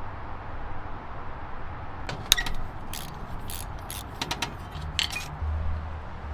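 A quick run of sharp metallic clicks and clinks, like tools or small metal parts being handled, over a low steady hum; the clicks come in the middle of the stretch and stop about two seconds before the end.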